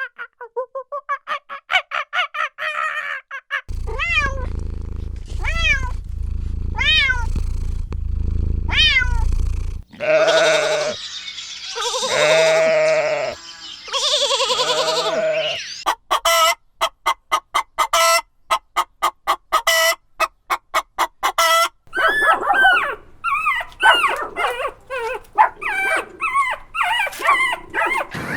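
A string of different animal calls, cut one after another: first about four separate rising-and-falling calls over a low hum, then louder, lower calls, then a fast run of clicks, and finally a burst of short chirping calls.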